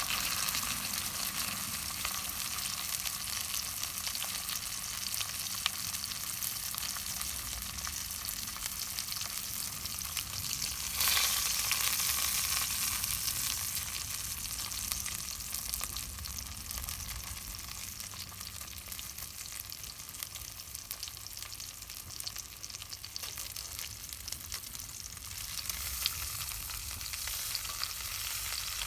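Campfire crackling and hissing: a dense, steady run of small pops, louder for a couple of seconds about eleven seconds in.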